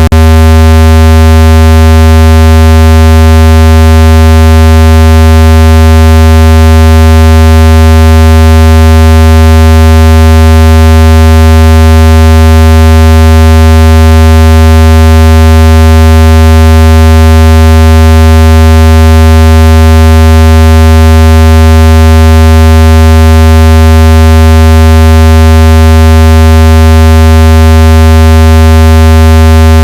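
Electronic speaker-cleaning tone: one deep, buzzy, unchanging tone played at full volume, meant to vibrate dust and moisture out of a phone speaker.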